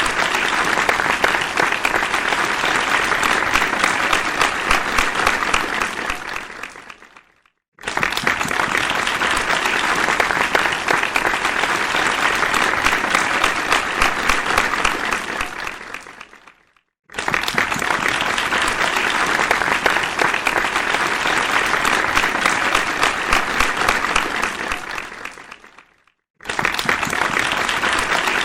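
Audience applause, dense clapping in repeated bursts of about nine seconds: each starts suddenly, dies away over a second or two and breaks off for a moment of silence before the next begins, with breaks about seven, sixteen and twenty-six seconds in.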